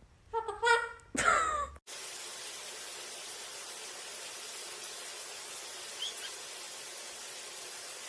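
A pet bird calling: a few loud pitched squawks over about a second and a half that cut off suddenly. A steady hiss follows, with one faint chirp near the end.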